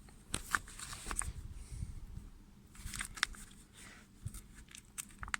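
Rustling and small clicks of a packet of brake caliper grease being handled and opened.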